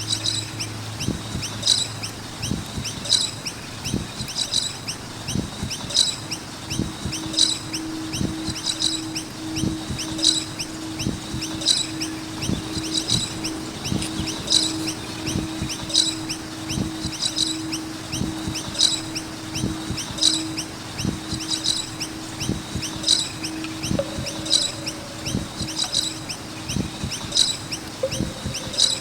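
Noisy miners chirping: clusters of high, sharp calls repeating at very even spacing, roughly every second and a half, over a steady low tone.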